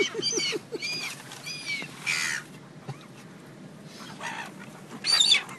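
Seagulls calling: a quick run of short squawks, then several arched cries, and a louder burst of calls near the end.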